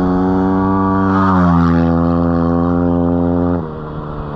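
A motor vehicle engine held at steady high revs, rising a little about a second in, then easing off sharply to a lower, quieter running tone about three and a half seconds in.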